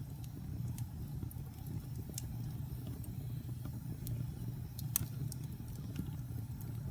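Wood fire burning in a fireplace: a steady low rumble with scattered sharp crackles and pops, one louder pop about five seconds in.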